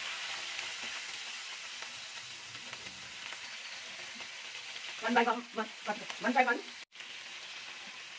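Steamed chicken pieces sizzling in hot oil in a frying pan, a steady hiss as they are laid in to fry. A short stretch of a person's voice, louder than the sizzle, comes a little past the middle.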